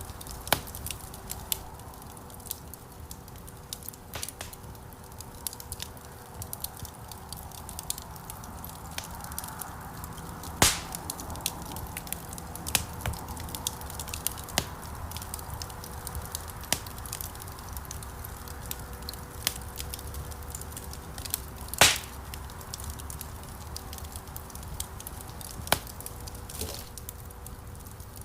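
Wood fire crackling in a fireplace: irregular small pops and ticks over a low, steady rumble of flames, with two louder snaps, about eleven seconds in and again near twenty-two seconds.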